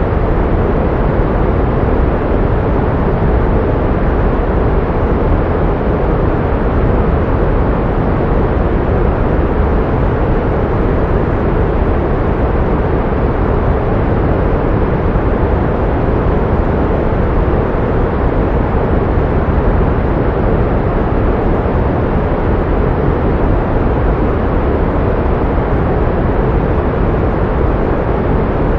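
Pink noise: a steady, unbroken rushing sound with no rhythm or events, weighted toward the low end and with little high hiss.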